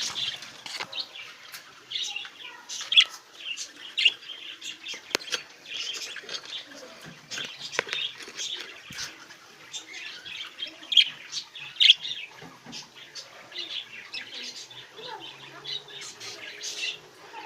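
A flock of budgerigars chirping and chattering, with frequent short, sharp squawks.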